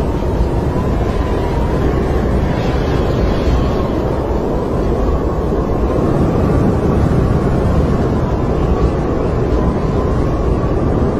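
Snowstorm wind blowing steadily: a deep, constant roar with a thin whistle that wavers gently up and down in pitch.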